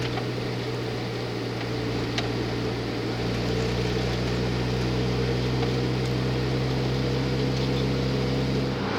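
Vehicle engine running steadily under a dense hiss, its low note dropping slightly near the end.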